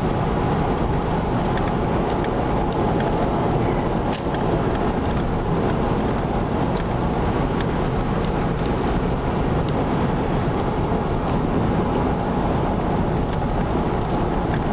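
A car driving at steady speed: constant road and wind noise, with scattered faint ticks.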